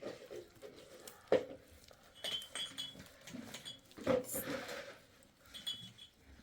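Household utensils being handled: two sharp knocks and scattered light clinks.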